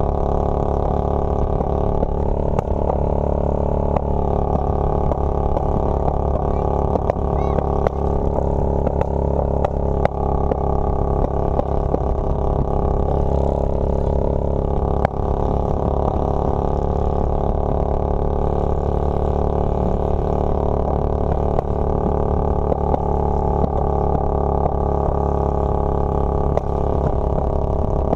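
Motorcycle engine running at a steady speed while riding, a constant low drone with no change in pitch.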